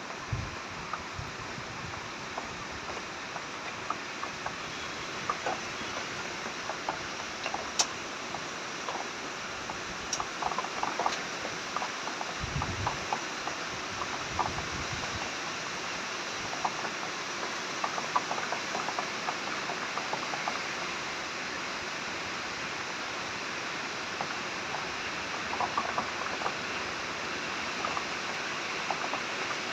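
Heavy rain falling: a steady hiss with many small drop impacts ticking through it, and a brief low rumble about twelve seconds in.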